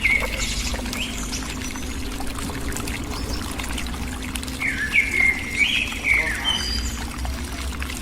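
A bird calling: a short chirping call just after the start, then a longer phrase of stepped whistled notes about five seconds in, over a steady low background.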